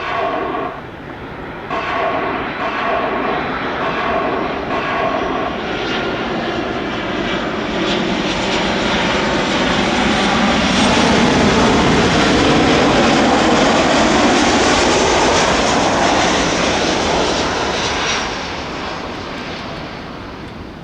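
Boeing 737-800 freighter's CFM56 jet engines on landing: the rush of the jet swells to a peak about halfway through, then fades near the end.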